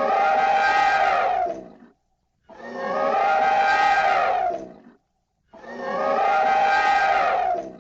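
An animal calling three times, each call a long pitched cry of about two seconds, with short silent gaps between.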